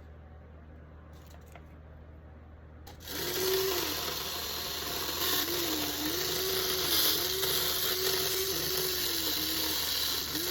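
Small electric motor of an HO model locomotive starting about three seconds in and running with a hiss and a whine whose pitch keeps dipping and recovering, as when the spinning drive wheels are loaded.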